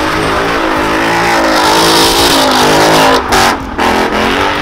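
Ford Mustang doing a burnout donut: the engine revs hard, its pitch rising and wavering as the rear tires spin and smoke. The engine note briefly drops twice a little over three seconds in.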